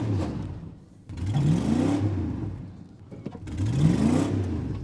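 Ford F-150 pickup's engine revving up in repeated pulls, each rising in pitch and then dropping away, the last of one rev dying away at the start and two more following about two seconds apart. The truck is straining under load to tow another pickup, held in park, through a duct-tape link.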